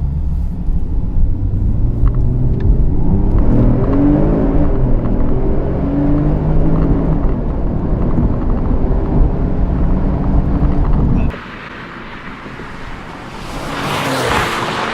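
Porsche 911 Turbo's twin-turbo flat-six running at speed as the car drives, a steady deep engine note. It cuts off abruptly about eleven seconds in, and near the end a rush of noise swells and fades.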